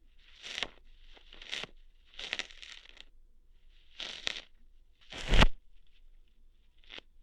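ASMR ear-hair plucking sounds made right at the microphone: a series of short scratchy, tearing bursts, about six of them roughly a second apart. The loudest, about five seconds in, comes with a low thump.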